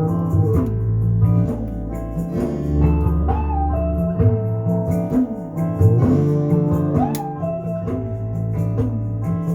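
Radio music playing through a Sansui Model 500A stereo receiver during its post-repair test, with a bass line and sliding melody notes.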